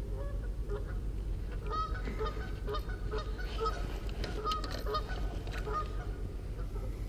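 Birds calling: a run of short, repeated calls starting about two seconds in and stopping about a second before the end.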